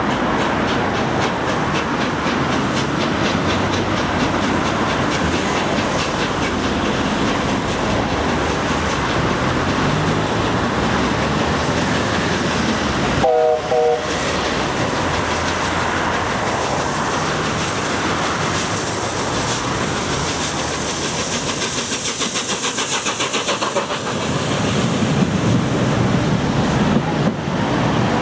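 LNER A1 Pacific steam locomotive 60163 Tornado running past with its wheels clicking over the rail joints, and a short whistle blast about halfway through.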